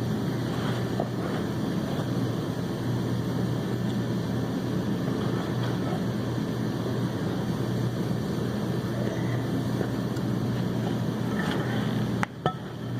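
Steady low mechanical hum, with a single sharp click near the end.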